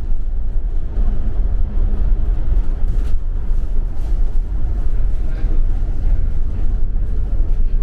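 Steady low rumble of engine and road noise heard inside a moving double-decker bus.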